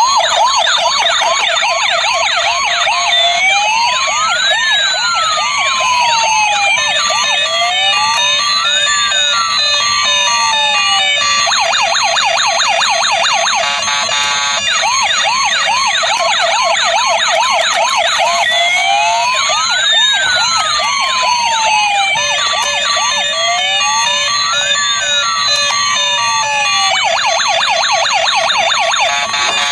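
Toy RC police cars' electronic siren sounds: several siren patterns layered at once, fast yelping sweeps over slower wails that rise and fall, repeating in a loop.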